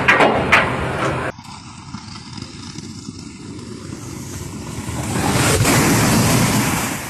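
Road and wind noise from a moving vehicle, a steady rush that swells loudly about five to six and a half seconds in, then falls back. In the first second there are a few sharp knocks before the sound cuts off abruptly.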